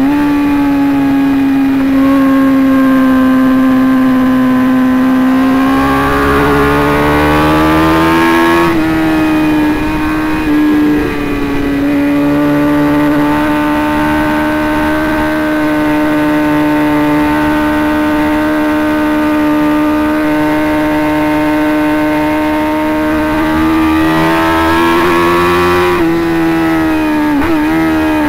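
Motorcycle engine running hard at high speed, with a strong steady note. Its pitch climbs a few seconds in, dips briefly, holds level for a long stretch, climbs again, then falls away near the end.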